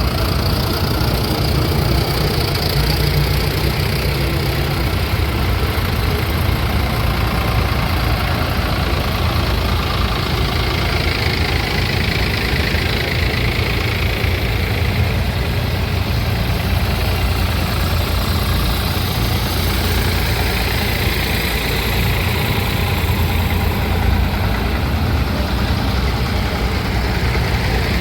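Vintage engine running at a steady idle, a low even rumble that holds throughout.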